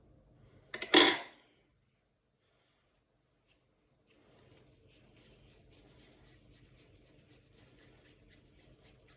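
Kitchenware clinking once, sharp and loud, about a second in, then faint continuous scraping or rustling from about four seconds in.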